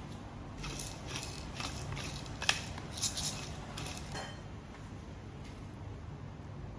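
Eating utensils clinking and tapping against a dish, about half a dozen light clicks over the first four seconds, the sharpest about two and a half seconds in, then only faint room background.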